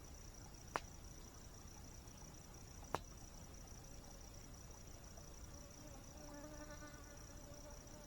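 A steady high insect trill, with two sharp pops from a crackling wood campfire, one about a second in and another about three seconds in. Near the end, a flying insect's buzz comes in and holds.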